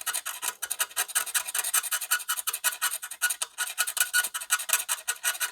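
Fine sandpaper rubbed quickly back and forth over a circuit board, about five strokes a second, scouring NiCad battery corrosion off the copper.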